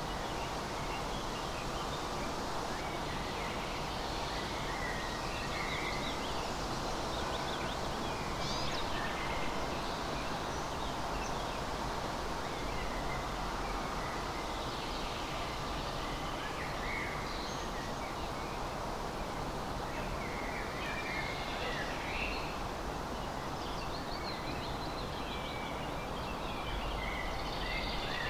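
Forest ambience: birds chirping in short scattered calls over a steady background hiss.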